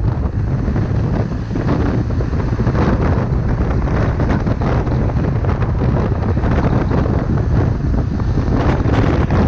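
Wind buffeting the microphone of a motorcycle-mounted action camera while riding, a heavy low rumble with the motorcycle's running engine under it.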